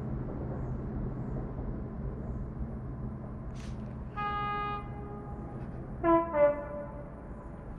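Electric locomotive horn: one steady blast of about a second and a half, then two short, louder toots that drop in pitch, over the steady low rumble of the train at the station. A brief hiss sounds just before the first blast.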